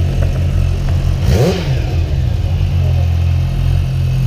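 Motorcycle engine idling steadily, with one quick throttle blip about a second and a half in, its pitch rising and falling back to idle.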